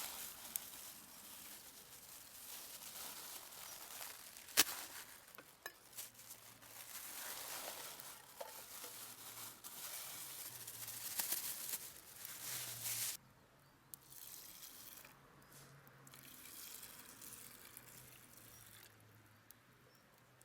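Food sizzling in a pan over a campfire, with one sharp click about four and a half seconds in. The sizzling drops off suddenly about thirteen seconds in, leaving a fainter hiss.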